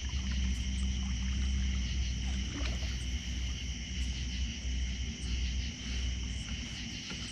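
Steady low rumble of water and wind noise around a fishing kayak, with a steady high-pitched drone over it.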